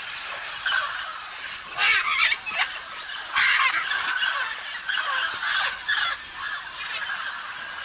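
Parrots squawking: a series of short, harsh calls, loudest about two and three and a half seconds in, over a steady high-pitched whine.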